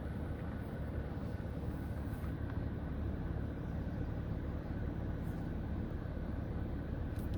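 Vehicle engine running, a steady low rumble heard from inside the cab.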